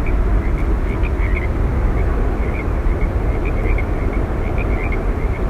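Steady deep roar of Yosemite Falls, rushing water heaviest in the low end, with faint short high chirps scattered through it.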